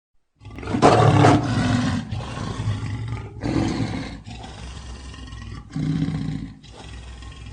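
Lion roaring: a loud, long roar begins about half a second in, followed by shorter, quieter roars roughly every two and a half seconds.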